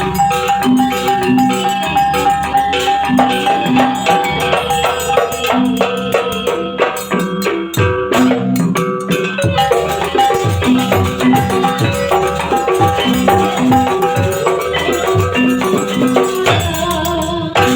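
Banyuwangi barong accompaniment music: struck tuned metallophones play a steady melody over rattling percussion, with deep drum strokes coming in about halfway through.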